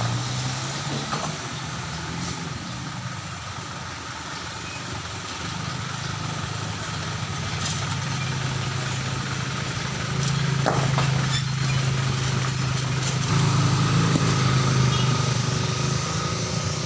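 A heavy diesel engine of a truck or road-works machine running steadily, with a low drone that grows louder about ten seconds in.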